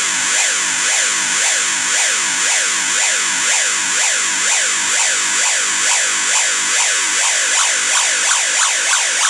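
Alarm sound-effect IC (C002 alarm module) driving a small speaker with a harsh electronic siren: repeated falling sweeps, about two or three a second and quickening toward the end, over a steady high hiss. It is so loud.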